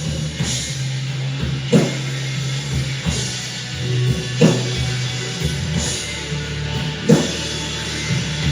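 A rock band playing an instrumental passage, with no vocals. Sustained bass and guitar notes run under a heavy drum hit that lands about every second and a half.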